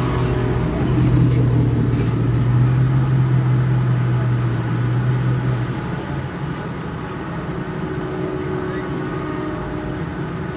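Low, steady engine hum of a vehicle idling close to the car, which stops about six seconds in, over a background of traffic noise.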